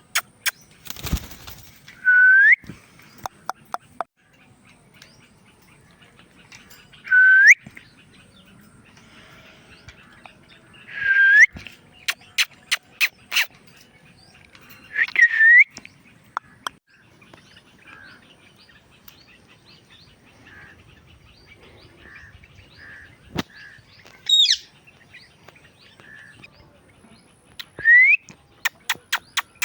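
Indian ringneck parrot giving short rising whistles, six in all, a few seconds apart, with sharp clicking sounds in between.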